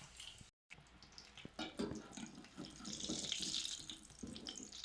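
Bolinhos de chuva (batter fritters) sizzling and crackling as they deep-fry in hot oil. The sound cuts out briefly about half a second in, then comes back louder from about a second and a half in.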